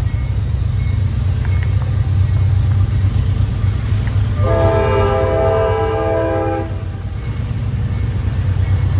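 Train passing close by with a steady low rumble, and a locomotive's multi-chime air horn sounding one blast of about two seconds in the middle.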